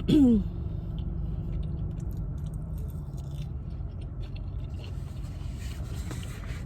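Steady hum of a parked car's air conditioning, with faint chewing and a utensil scraping in a burrito bowl. A brief vocal sound comes right at the start.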